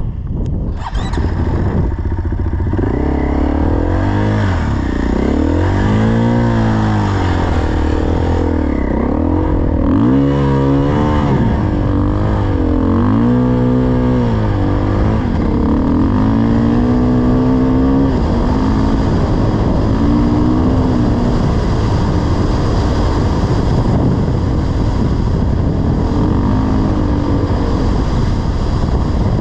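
Dirt bike engine running under way, its pitch rising and falling several times as the throttle is worked through the first half, then running more steadily.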